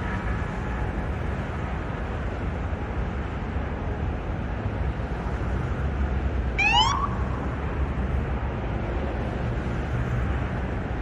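Steady low outdoor city rumble, with one short, rising, whistle-like chirp about six and a half seconds in.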